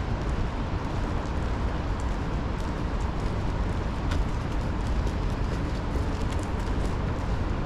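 Steady wash of rain and city traffic noise, with strong wind buffeting the microphone as a low rumble and scattered faint ticks throughout.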